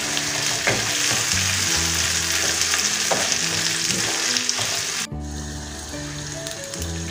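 Food sizzling as it fries in a pan, with a few light clicks of stirring. The sizzle cuts off suddenly about five seconds in.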